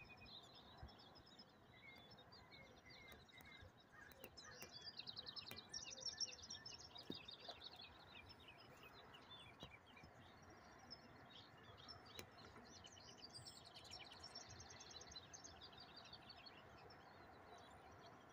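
Faint outdoor ambience with small birds chirping and trilling in quick runs of notes, most active about four to seven seconds in and again around thirteen to sixteen seconds.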